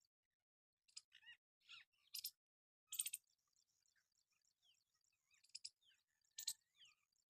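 A parrot gives a handful of short, harsh, high-pitched squawks spaced irregularly, the loudest about three seconds in, with faint rapid high chirping of small birds or insects behind.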